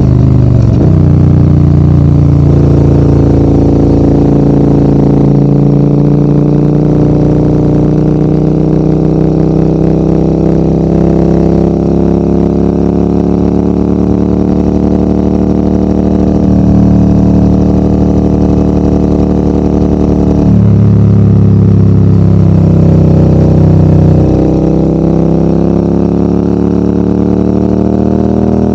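Adventure motorcycle engine pulling uphill, its note climbing steadily through the gears. The pitch drops about a second in and again around two-thirds through, then rises again as the bike accelerates.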